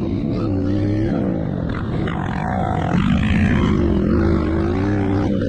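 Motocross bikes' engines revving, their pitch wavering up and down over a steady low drone.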